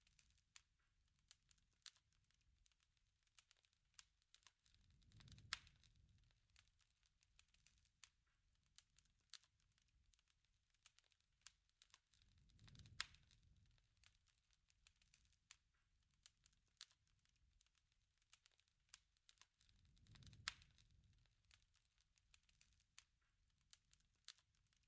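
Faint crackling of a wood fire: irregular small snaps and ticks, with a sharper pop and a soft low swell three times, about every seven or eight seconds.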